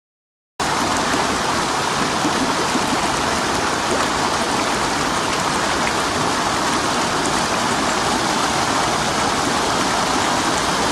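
Water flowing and rushing steadily, a loud even wash of noise that cuts in abruptly about half a second in.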